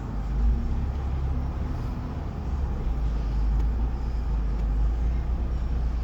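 Car interior noise while driving: a steady low rumble of engine and road noise heard inside the cabin.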